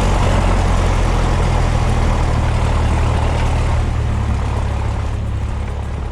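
Cessna 172's piston engine and propeller running steadily at low power in the cabin, the hiss easing slightly near the end.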